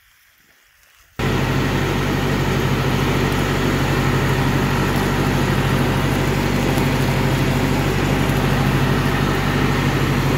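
Riding lawn mower engine running at a steady speed, cutting in suddenly about a second in after near silence.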